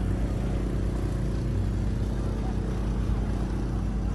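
Small motorboat's engine running steadily.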